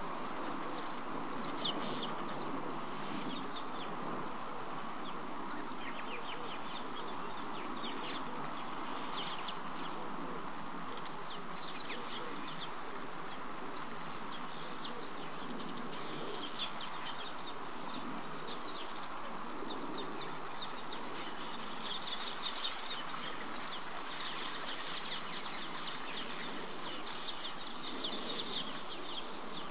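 Outdoor bush ambience: many short, high bird chirps throughout, thicker in the second half, over a steady background hiss.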